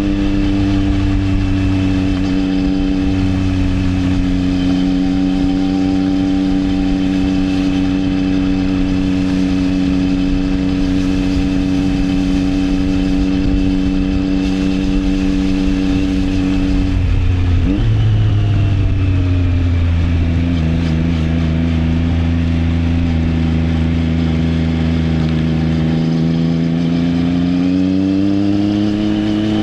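Triumph Trident 660's inline three-cylinder engine running through an Arrow exhaust, holding a steady note under way. A little past halfway the engine note drops abruptly to lower revs. It then eases down and climbs again near the end as the bike accelerates.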